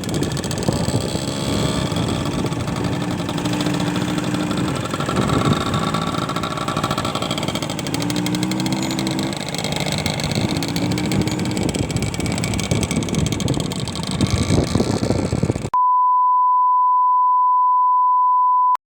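Vehicle engine running with wind rushing on the microphone, on a ride through a sandstorm. Near the end a steady pure beep of about three seconds replaces it and cuts off abruptly.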